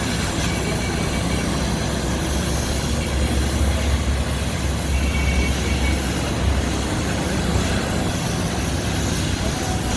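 Machinery cutting iron sheet: a steady mechanical rumble and hiss, swelling louder about three seconds in, with a faint high squeal of metal now and then.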